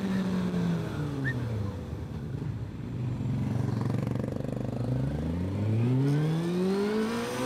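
Motorcycle engine on the move. The revs drop over the first two seconds as it slows, stay low for a few seconds, then climb steadily as it accelerates near the end.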